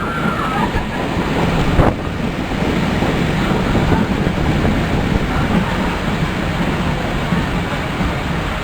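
Loud steady rushing noise of wind buffeting the microphone over the rumble of a Karachi Circular Railway train, with a single knock about two seconds in.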